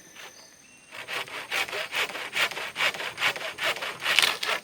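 A hand saw cutting through wood in quick, even back-and-forth strokes, about two to three a second, starting about a second in.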